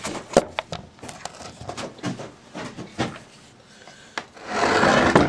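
Engine parts being handled on a bench: scattered light knocks and clicks, then a loud rustling noise for under a second near the end.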